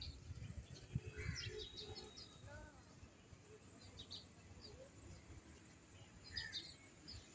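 Small birds chirping in short, high notes, in clusters about a second in, around four seconds and again after six seconds, over a faint low background rumble.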